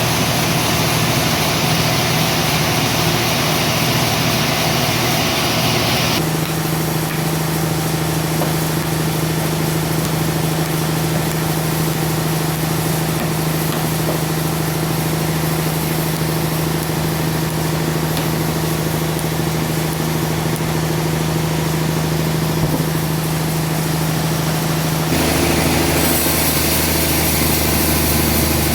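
Sawmill machinery running steadily while sawing a trembesi (rain tree) log, with a strong steady engine hum. A high hiss drops out abruptly about six seconds in, and a deeper, fuller rumble comes in near the end.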